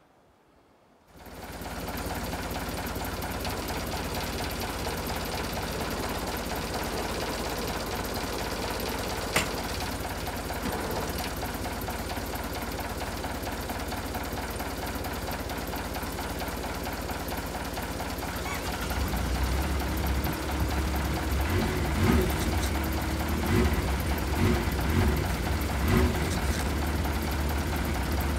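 An engine starts about a second in and runs steadily. About two-thirds of the way through it grows louder, with a deeper low hum and some irregular knocks.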